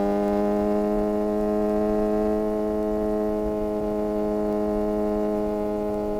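Suzuki GSX-R600 inline-four engine pulling at a steady, fairly high engine speed under way, its note holding nearly level and starting to climb near the end.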